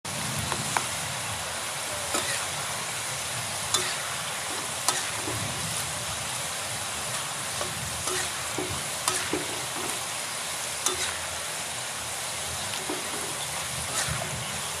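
Food frying in hot oil with a steady sizzle, and scattered sharp clicks of a utensil against the pan as it is stirred.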